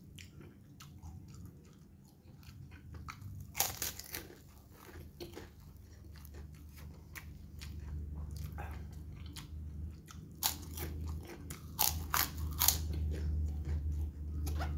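A person chewing a mouthful of food close to the microphone. There are sharp crunching bites about four seconds in and several more through the second half.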